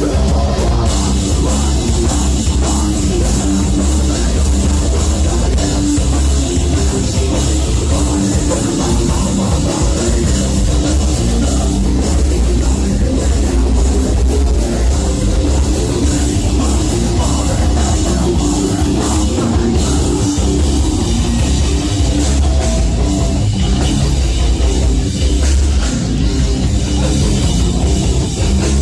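A heavy metal band playing live, loud and unbroken, with distorted guitars, a heavy low end and a pounding drum kit.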